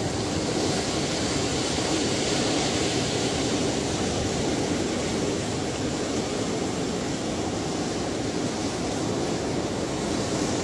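Ocean surf: a steady, unbroken wash of waves.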